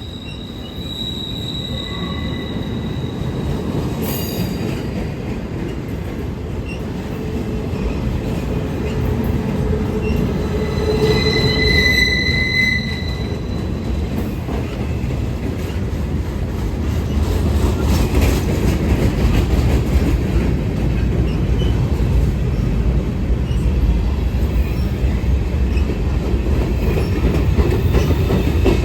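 A train rolling by on the rails, its low rumble growing louder. Its wheels squeal in high tones twice, about a second in and again near the middle.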